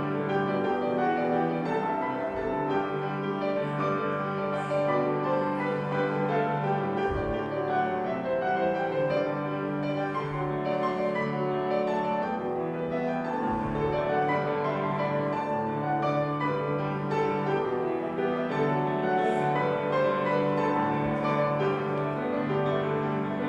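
Instrumental keyboard music, piano-like, playing steadily with held chords and no singing.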